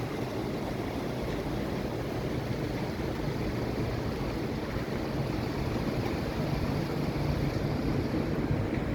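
River water rushing steadily, a continuous even noise that grows slightly louder near the end.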